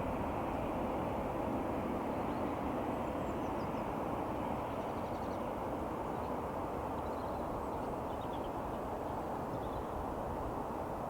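Steady roar of jet aircraft engines, easing off slightly toward the end, with a few faint high bird chirps.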